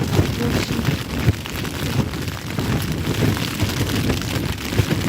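Strong, gusting wind battering an Olpro Voyager 2 lightweight tent from inside, with the fabric shaking and flapping in irregular surges and the wind rumbling on the microphone.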